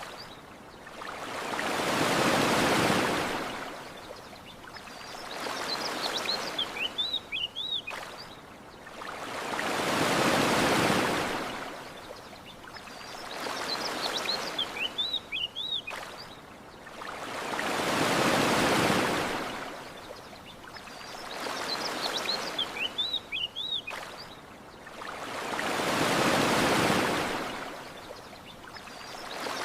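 Gentle sea waves washing onto a sandy shore, the rush of water rising and falling in regular swells, a larger one about every eight seconds. A small bird's quick high chirps come in with each cycle, as the same short stretch of surf recording repeats.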